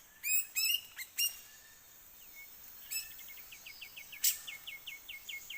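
Birds chirping: a few sharp separate chirps in the first second or so, then quick runs of short repeated notes, about eight a second, with one loud sharp note a little after four seconds in.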